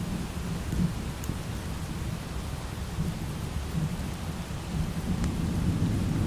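Low rolling thunder over steady light rain, the rumble swelling near the end, with a few faint ticks.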